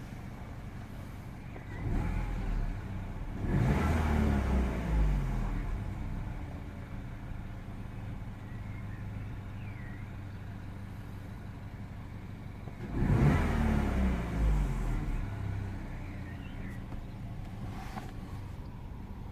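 Peugeot RCZ's 1.6 THP turbocharged four-cylinder petrol engine idling while warming up from cold. The throttle is blipped twice, about three seconds in and again around thirteen seconds, and each time the revs fall back to idle. The owner reports an intermittent rough idle that sags after such blips as if about to stall, and wonders whether coil packs, the high-pressure fuel pump or the auto choke is to blame.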